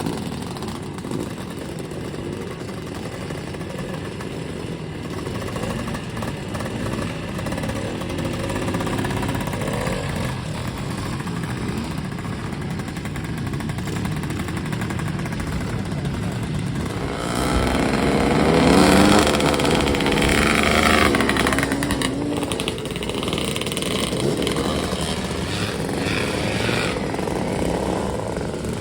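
Classic Bultaco two-stroke motorcycle engines running, their pitch rising and falling as they are revved. About two-thirds of the way through, one bike gets louder and revs up and down close by before fading back.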